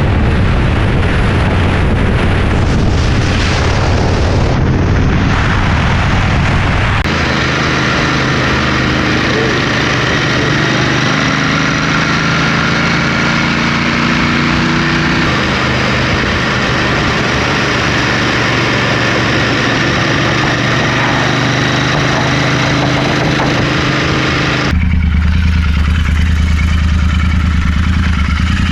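Motorcycle engine running steadily at cruising speed on the move, over a loud rushing noise. The sound changes abruptly about seven seconds in and again near the end.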